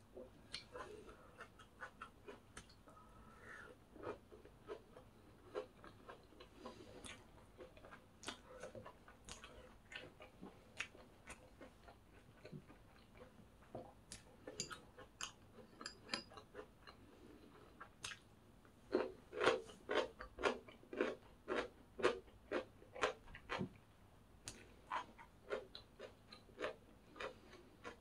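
Close-up chewing of crisp, crunchy food, a stream of small crunches; about two-thirds of the way in a run of louder crunches comes about two a second.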